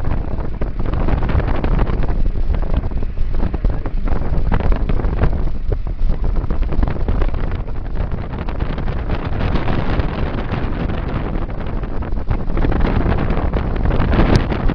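Wind buffeting the microphone: a steady, heavy rumble and rush that rises and falls irregularly, with a brief click near the end.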